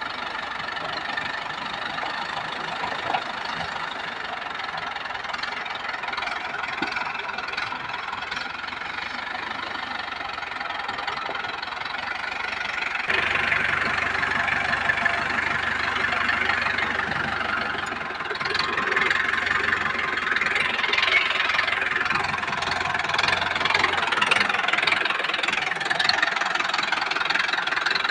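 Diesel tractor engine running with a knocking clatter, getting louder about halfway through and again a few seconds later.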